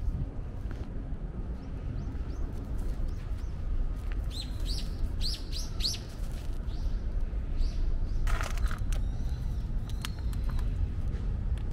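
Small birds chirping, with a quick run of short high chirps about four to six seconds in and a few scattered calls later, over a steady low city rumble.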